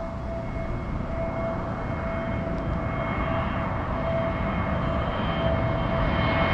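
Jet airliner engines growing gradually louder as the plane approaches, a steady whine over a broad rushing noise.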